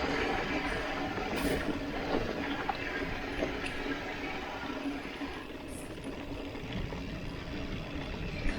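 Mountain bike riding over a dirt track: steady tyre noise on the dusty ground, with scattered clicks and knocks from the bike rattling over bumps.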